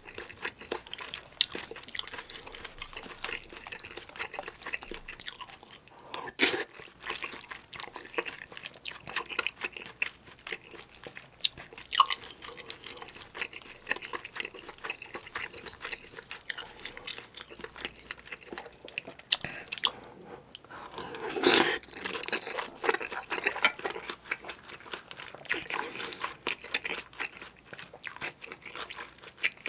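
Close-miked wet chewing of kimchi stew mixed with rice, with small clicks and scrapes of a wooden spoon against a thin gold-coloured aluminium pot while scooping mouthfuls.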